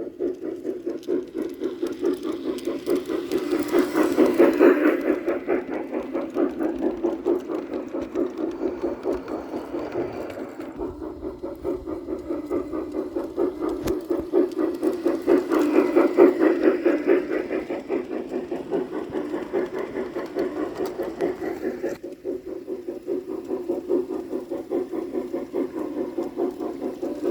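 Model steam locomotive pulling a freight train around a layout: a steady mechanical whir with a fast, even clatter of wheels on track. It grows louder twice, about four seconds in and again about sixteen seconds in, as the train comes round close and moves away.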